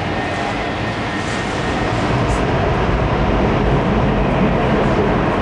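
Jet airliner's engines running, a steady rushing noise with a deep rumble that grows slowly louder.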